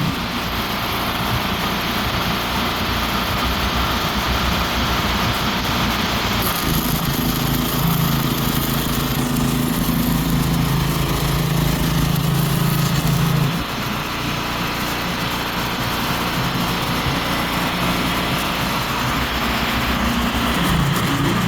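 An engine running steadily, with a low hum that drops away about thirteen seconds in while the general running noise carries on.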